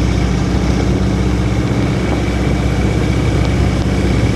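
Inboard engine of a vỏ lãi, a Mekong wooden speedboat, running steadily while the boat is under way.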